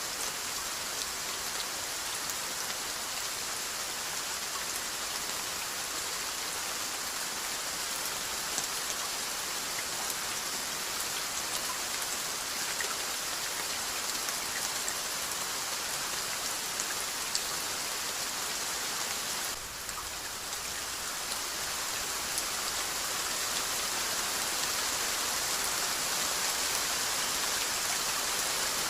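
Steady rainfall, a dense patter with individual drops ticking through it. It dips briefly about two-thirds of the way through, then carries on a little louder.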